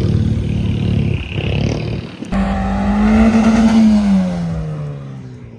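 Car engine running, then about two seconds in a louder engine note starts abruptly, climbs a little and falls steadily in pitch as it fades.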